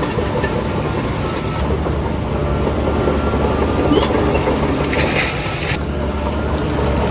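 Shantui DH17C3 bulldozer's diesel engine running steadily under work, with the clatter of its steel tracks; a short hiss about five seconds in.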